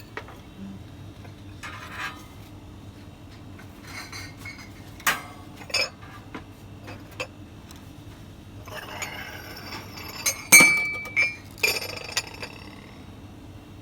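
A mug and other crockery being handled and set down: scattered knocks and clinks, busiest near the end, with one loud clink about ten and a half seconds in that rings briefly.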